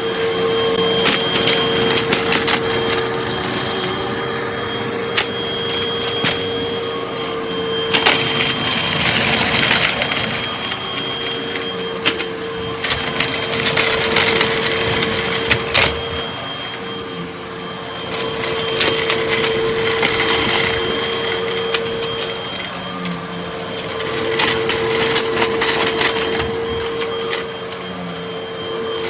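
Hoover vacuum cleaner running with a steady motor hum while sucking up light crunchy debris, which crackles and clicks irregularly as it is pulled in.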